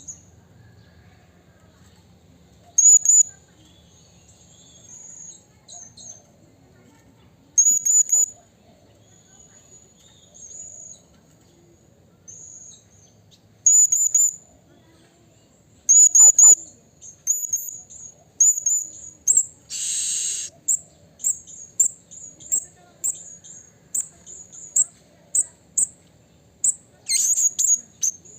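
Blue-crowned hanging parrot (serindit) giving thin, very high-pitched call notes, in clusters of two or three every few seconds. In the second half they quicken into a run of short notes at about two a second, with one louder, harsher burst near the middle.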